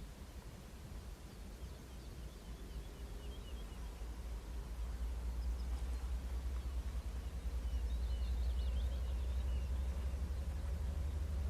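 Low, distant rumble of an approaching pair of TEP70BS diesel locomotives, growing steadily louder, with birds chirping twice in the background.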